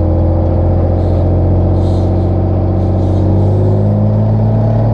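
Heavy diesel engine of logging equipment running steadily, its pitch rising slightly about three and a half seconds in as it picks up revs.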